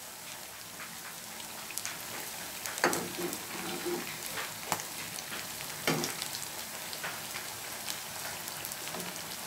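Potato vadas sizzling in hot oil in a frying pan: a steady sizzle with many small pops. A steel slotted spoon clicks against the pan a few times as the vadas are turned, most clearly about three and six seconds in.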